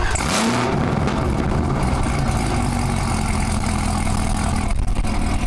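Supercharged 6.2-litre V8 of a 2022 Camaro ZL1 on its factory NPP exhaust, starting warm with a short burst of revs about half a second in, then settling into a steady idle.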